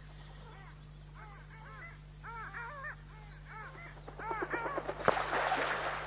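Field recording of a flock of birds calling, the short arched notes coming in quick clusters. A sharp crack about five seconds in, with a brief loud rushing noise around it, is the loudest part.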